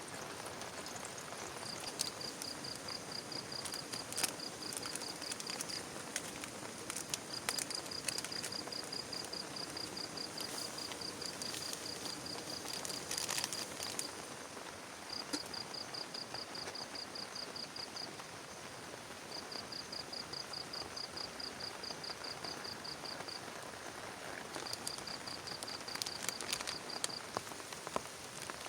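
Steady rain falling, with scattered sharp ticks of drops striking close by. Over it an insect calls in high-pitched pulsed trills, several seconds long with short pauses between, about five times.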